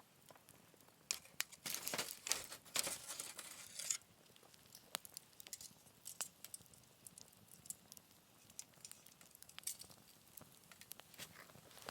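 Wood fire in a small fire pit crackling, with scattered sharp pops and a denser spell of crackling and hissing about two to four seconds in.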